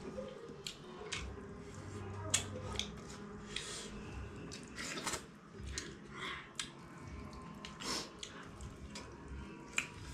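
Close-up eating sounds of buckwheat dhido with vegetables and pickle: wet chewing, lip smacks and many short mouth clicks at irregular intervals.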